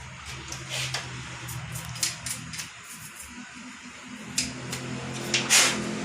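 Light clicks and scrapes of small metal parts being handled as a spring is fitted onto the control shaft of a Bosch rotary diesel injection pump, with a louder scrape near the end, over a steady low hum.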